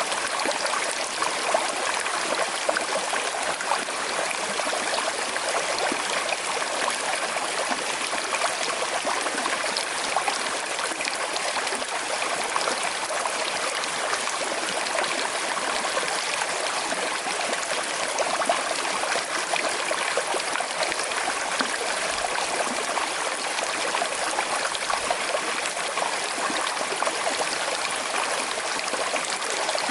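Small, slowly flowing river running over stones, a steady babbling and trickling with fine splashes.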